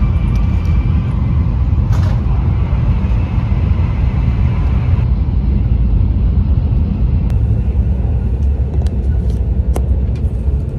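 Steady low rumble of a Taiwan High Speed Rail train running, heard from inside the passenger car, with a few faint clicks.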